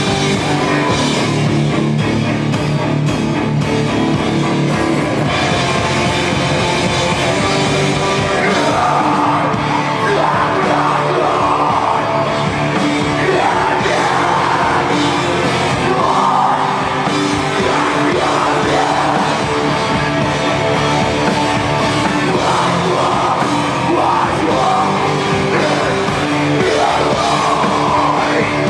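A rock band playing live, with a vocalist singing over the band from about eight seconds in.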